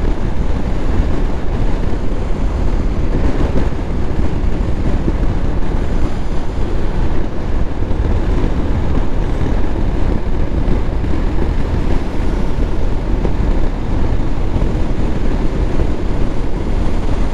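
Motorcycle riding at high speed, with steady wind rushing over the microphone mixed with the engine and road noise.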